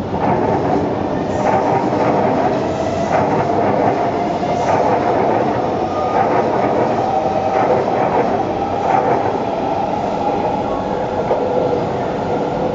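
Kawasaki-built SMRT MRT train running along the track: a loud, steady rail rumble with irregular knocks and rattles about once a second, which the uploader blames on distorted track shaking the train.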